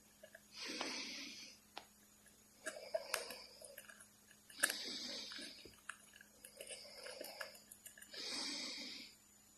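Pet parrot making breathy, hiss-like noises: three long hisses about a second each, with clicks and short soft calls between them.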